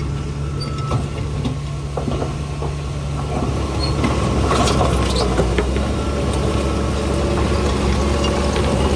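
Heavy diesel engine of earthmoving machinery running steadily, with scattered clanks and rattles as it grows a little louder about four seconds in; the engine note shifts about six seconds in.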